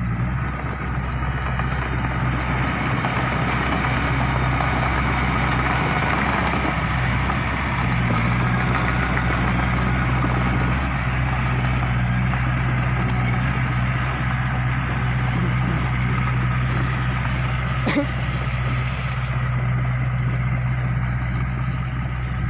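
A heavy diesel engine idling steadily with a deep, even hum. A single sharp click sounds about eighteen seconds in.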